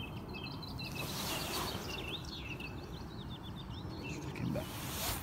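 Small songbirds chirping and singing, a quick run of short high notes repeating and changing, over a steady low background rumble. A brief rustle near the end.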